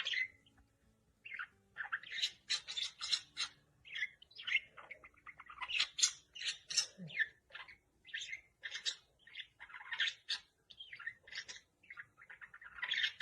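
A bird chirping repeatedly: many quick, short, high calls in an irregular run, with brief gaps between them.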